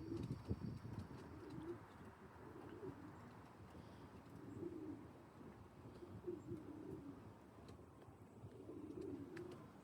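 Racing pigeons cooing softly, low coos repeating every second or two, with a few faint knocks in the first second.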